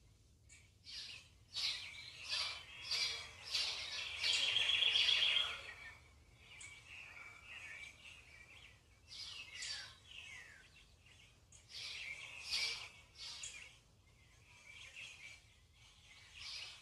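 Birds singing: a string of high chirps, a fast trill about four seconds in, and a few down-slurred whistles later on.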